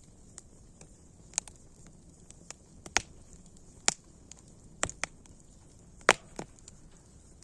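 Wood campfire crackling: a steady faint hiss broken by a handful of sharp pops, the loudest about three and six seconds in.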